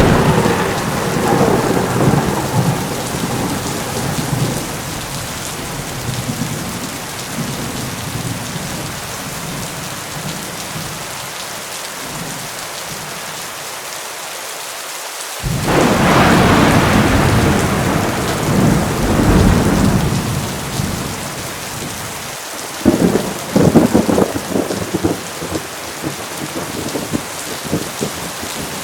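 Heavy rain falling steadily with thunder: a loud peal right at the start that rumbles away over several seconds, another sudden loud peal about halfway through, and a crackling burst of thunder near the end.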